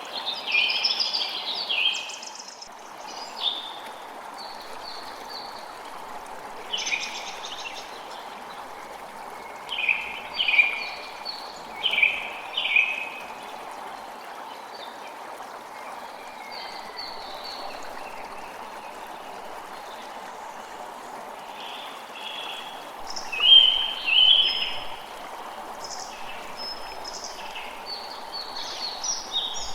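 A small creek running steadily, with songbirds calling in short bursts of chirps over it, the loudest near the start, in the middle and a little past two-thirds of the way through.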